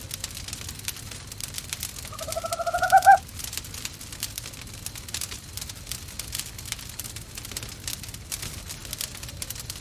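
Wood fire crackling in a fireplace, with one owl call about two seconds in: a pulsing call lasting about a second that rises in pitch and grows louder, the loudest sound.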